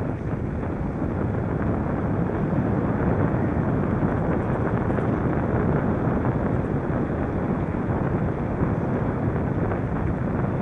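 Steady wind rushing over the microphone, with the rumble of tyres on the road, while a bicycle is ridden. There is no clicking or grinding from the freshly greased wheels.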